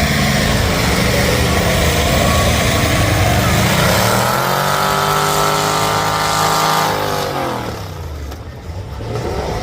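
Mud truck's engine revving hard: its pitch climbs about four seconds in, holds high for a few seconds, then drops off as the throttle is let go.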